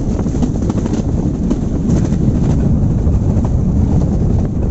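Moving train's steady low rumble, with wind buffeting the microphone.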